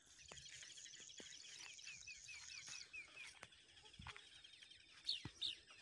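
Faint bird calls: a rapid series of short falling chirps, about five a second, for the first three seconds or so, then two short higher notes near the end.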